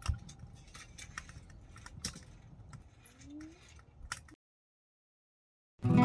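Faint scattered clicks and light knocks over a low background rumble, then a sudden cut to silence about four seconds in. Strummed acoustic guitar music starts just before the end.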